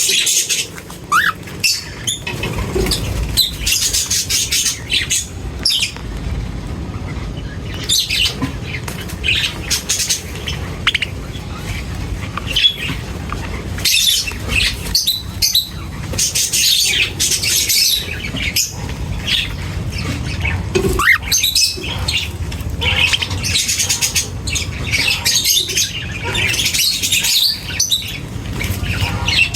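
Many birds chirping and squawking at once in a busy flock, short sharp calls overlapping throughout, over a steady low rumble.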